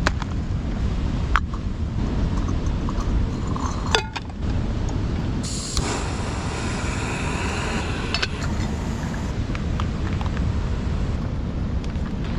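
Steady low rumble of wind on the microphone and ocean surf, with a couple of brief knocks in the first few seconds.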